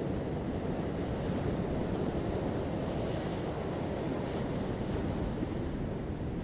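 Ocean surf: a steady rush of waves washing onto a beach.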